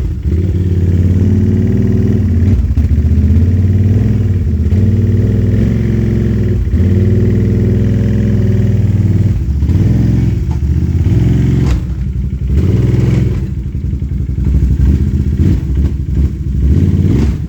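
Dirt bike engine running, its revs rising and falling, with several brief drops in level in the second half.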